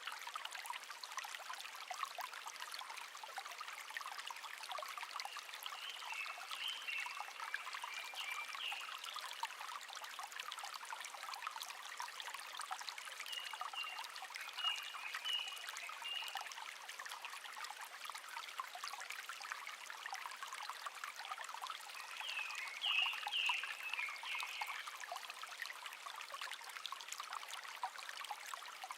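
Shallow stream running steadily over stones, with a songbird singing short chirping phrases three times: about a quarter of the way in, around the middle, and again near the end.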